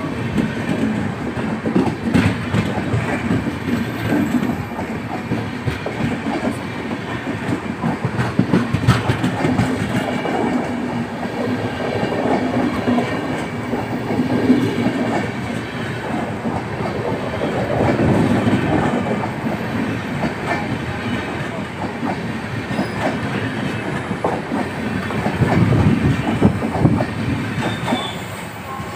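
Indian Railways LHB passenger coaches of an express train rolling past on departure, their wheels clattering over rail joints in a steady run of clicks. The sound falls away near the end as the last coach passes.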